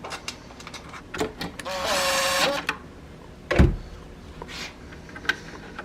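A cordless drill-driver whirs for about a second, its pitch rising briefly then holding steady, amid small clicks and knocks of metal parts being handled. A heavy thud comes about three and a half seconds in.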